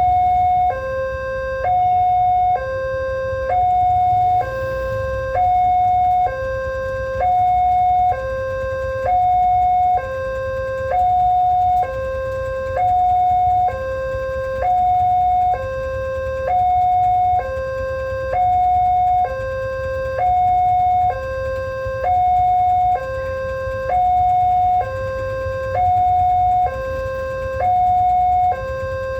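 Railroad level-crossing warning alarm sounding a steady electronic two-tone signal, a higher note and a lower note alternating, each held just under a second, warning that a train is approaching. A low rumble runs beneath it.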